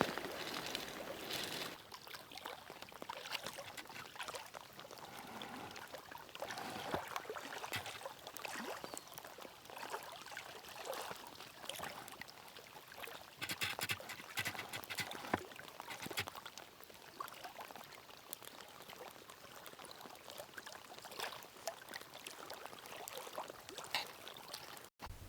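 Water trickling and splashing irregularly, with denser patches of small crackling drips now and then.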